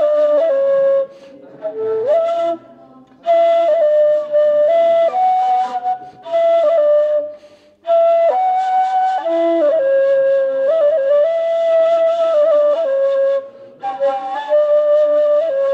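Ney, the end-blown reed flute, playing a slow solo melody in phrases separated by short breaks.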